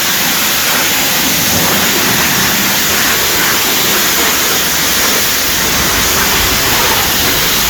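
Steady hiss of a water jet spraying onto a car's engine bay, washing grime off the engine.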